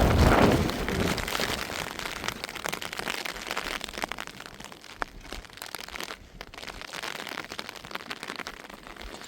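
Rain falling, with many drops ticking sharply. A loud rushing sound at the start dies away over the first couple of seconds, leaving the steady patter of rain.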